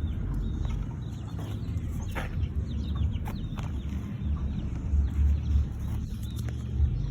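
Baby chicks peeping: many short, falling cheeps, scattered and overlapping, over a steady low rumble.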